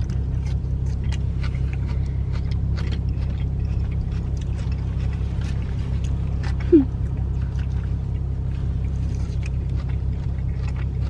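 Steady low rumble inside a car's cabin, with faint scattered clicks and taps. About seven seconds in there is one brief falling squeak.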